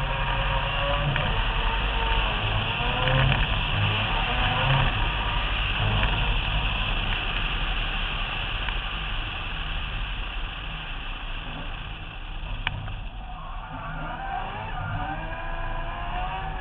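Mazda RX-7 drift car's rotary engine running at speed on track, heard from a camera on the roof under a steady rush of wind and road noise. The engine eases off about twelve seconds in, with a sharp click, then builds revs again near the end.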